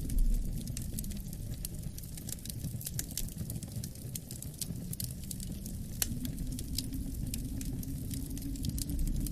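Wood fire crackling, with many sharp pops and snaps at irregular intervals, over a low rumble of wind that slowly swells and eases.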